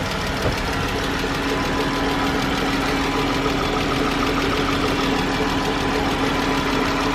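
Chrysler 3.6-litre Pentastar VVT V6 idling with a steady rapid ticking from the valvetrain, lifter-like, which the owner traces to a rocker arm or lifter on the driver's-side bank.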